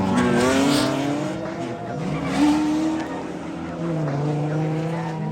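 Drift cars on track with their engines revving up and down and their tires squealing in short bursts, the loudest squeal about two and a half seconds in.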